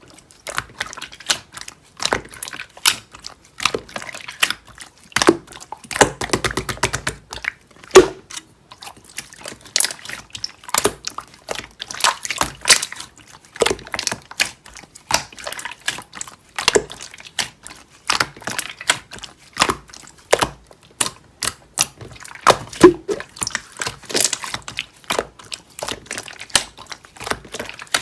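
Slime being pressed and squished by hand, giving a run of irregular wet clicks and pops, several a second, with a few louder pops.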